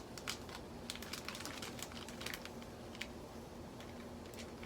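Light, scattered crinkles and clicks of a plastic bag of plaster cloth sheets being handled and opened, over a faint steady hum.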